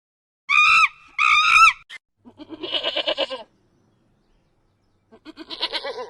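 Goats bleating: two short, high calls about half a second apart, then two longer, lower bleats with a rapid quaver, one a couple of seconds in and another near the end.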